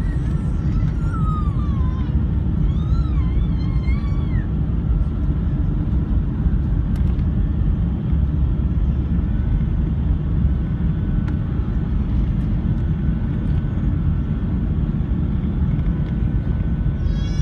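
Steady low rumble inside the passenger cabin of a British Airways Airbus A380 in flight: its Rolls-Royce Trent 900 engines and the airflow over the fuselage. A faint voice rises and falls over it in the first few seconds.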